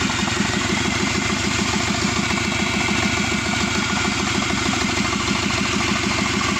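Subaru EJ255 2.5-litre turbocharged flat-four engine idling steadily with an even pulse, fully warmed up after about 18 minutes of running.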